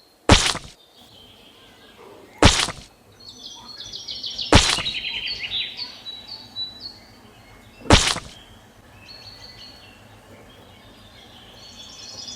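Four sharp knocks, spaced about two to three seconds apart, over birds chirping in quick high repeated notes.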